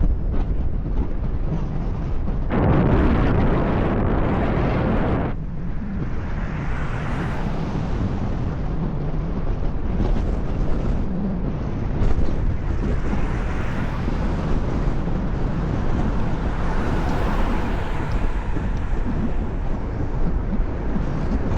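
Wind buffeting the microphone of a camera on a moving road bike, a steady rushing noise. A louder rush lasts about three seconds near the start and cuts off suddenly.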